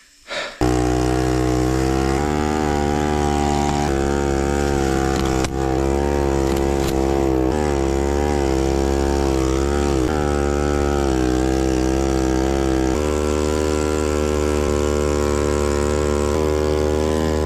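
Two-wheel-drive motorcycle engine running hard, its pitch rising and falling as the throttle is worked. It starts abruptly about half a second in.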